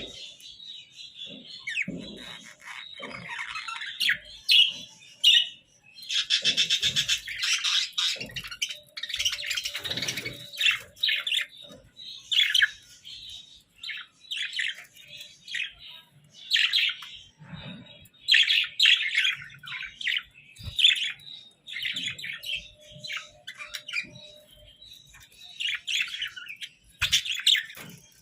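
Budgerigars chirping and warbling in quick, irregular runs of short chirps.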